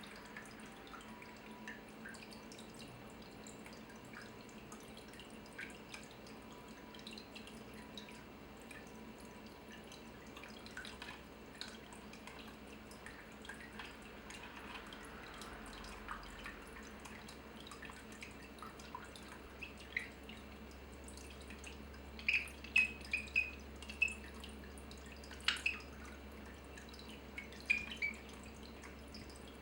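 Water dripping, with scattered faint drips and a run of louder, clearer drips in the last third.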